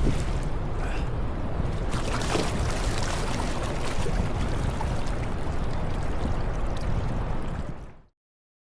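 Wind buffeting the microphone on an open boat, with the hiss of water, cutting off suddenly about eight seconds in.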